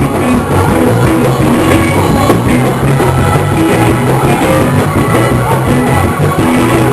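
Loud live gospel band music played for a church praise break.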